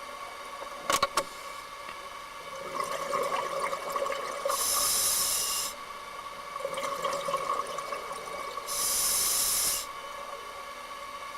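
Scuba diver breathing through a regulator underwater: twice, a hissing inhale followed by a rush of exhaled bubbles lasting about a second. A steady hum runs underneath, and two sharp clicks come about a second in.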